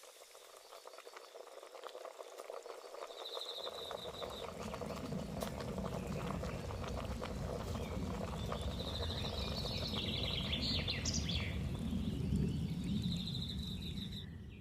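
Evening nature ambience: crickets chirp in short high trills on and off. About three and a half seconds in, a dense bubbling water sound comes in, like a gentle simmer, and builds steadily louder.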